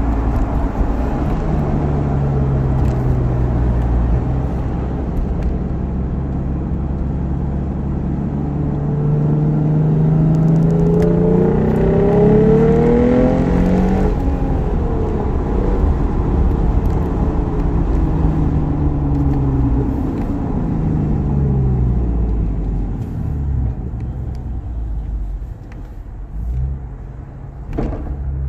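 Lexus IS350's 3.5-litre V6 pulling under load through a modified exhaust (Vibrant resonator, Flowmaster high-flow secondary cats, F-Sport axle-back), heard from inside the cabin. The engine note climbs for several seconds to a peak about halfway through, drops back, then rises and falls again more gently.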